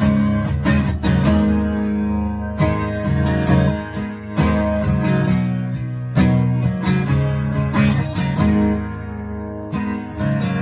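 Acoustic guitar strummed in a steady rhythm: an instrumental break in a country-style song, with no singing.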